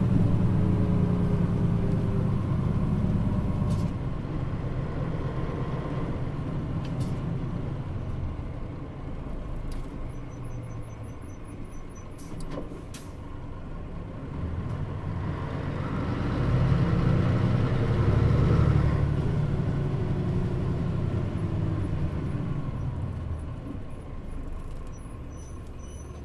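Mitsubishi Fuso Aero Star diesel city bus (KL-MP35JM, Nishitetsu body) heard from inside while driving. The engine note eases off over the first few seconds, a few sharp clicks come about 12 to 13 seconds in, the engine pulls harder again about 16 seconds in, and it then tails off toward the end.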